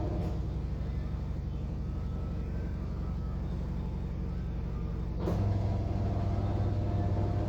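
Steady low mechanical hum with a strong low drone. A sharp click about five seconds in is followed by the hum getting louder.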